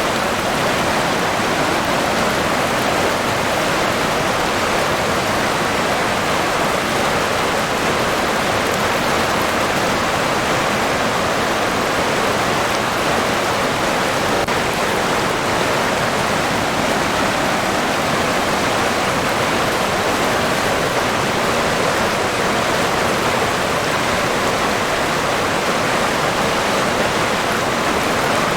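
River water rushing and splashing steadily, a constant, even flow.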